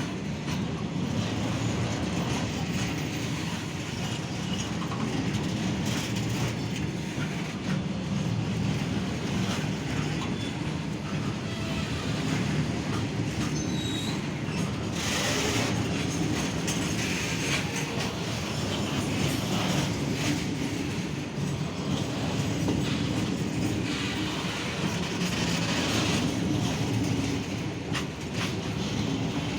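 Train running along the track: a steady rumble of wheels on rails with repeated clicks from the rail joints throughout.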